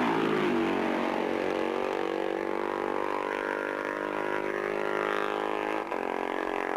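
Racing motorcycle engine going by: its note drops in pitch at the start, then holds steady, with a short break just before the end.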